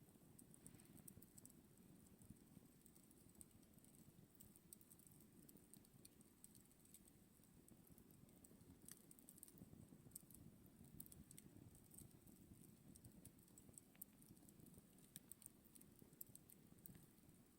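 Faint campfire crackling: scattered small ticks and pops, irregular and unevenly spaced, over a steady low rumble.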